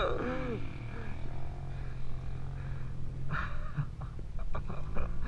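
Dirt bike engine running at a steady pitch, with a short burst of noise about three seconds in, after which the engine settles back to the same steady note.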